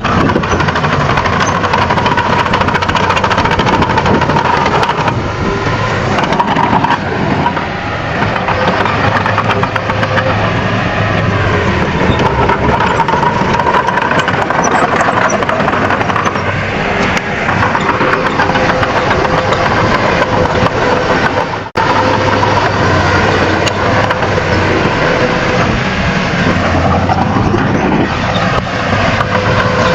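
Bulldozer's diesel engine running steadily under load, with frequent sharp clicks and cracks from the working machine and the soil.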